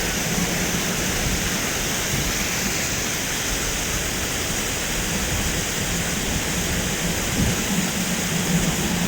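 Steady rush of high, fast-flowing river water, with a faint low steady hum underneath.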